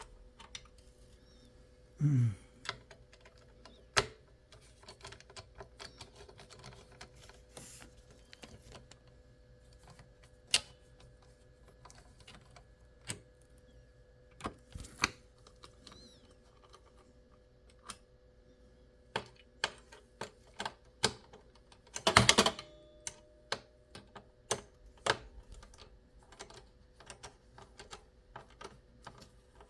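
Irregular light clicks and taps of small hard parts being handled, with a louder brief clatter about two thirds of the way through, over a faint steady hum.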